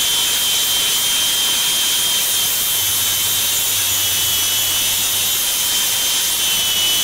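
Angle grinder with a flap disc running and sanding down uneven wooden deck boards: a steady high-pitched whine over loud hissing abrasion.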